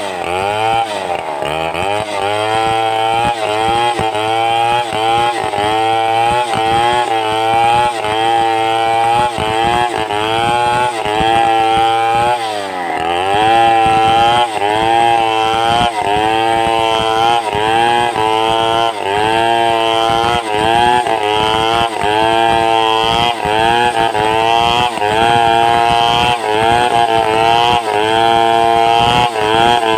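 Two-stroke chainsaw running under load as it rips lengthwise through timber to cut planks, its engine pitch wavering up and down about once a second. About halfway through, the pitch drops briefly, then comes back up.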